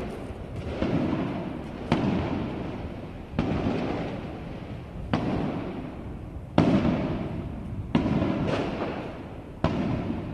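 Aerial fireworks shells bursting, about six booms a second and a half apart. Each sharp bang trails off in a rumble before the next.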